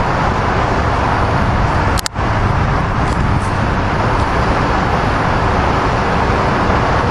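SEPTA commuter train led by an AEM7 electric locomotive rolling into the station at close range: a steady rumble and rush of wheels on rail. The sound briefly cuts out about two seconds in.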